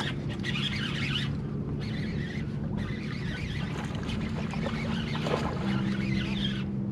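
A boat motor running steadily with a low hum, under wind and water noise.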